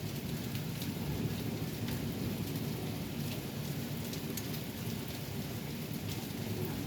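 Heavy rain in a thunderstorm: a steady wash of rain with scattered sharp ticks of drops striking, over a continuous low rumble.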